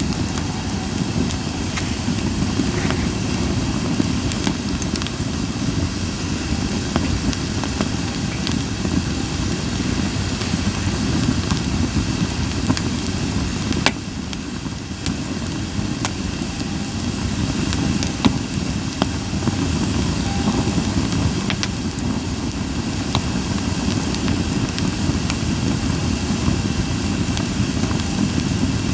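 Japanese white pine (goyomatsu) campfire crackling, with scattered sharp pops, a loud one about halfway through, over a steady low rumble.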